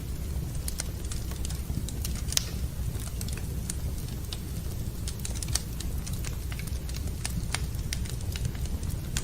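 Wood fire crackling in a fireplace, with irregular sharp pops and snaps over a steady low rumble. Two louder pops come about two and a half and five and a half seconds in.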